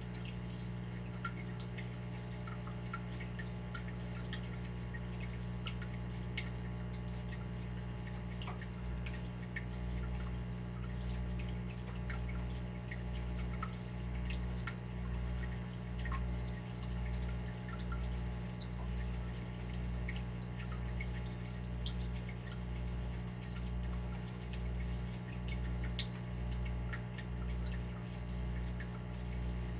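Water dripping in small, irregular drops over a steady low hum; about a third of the way in, a low throb starts pulsing about once a second.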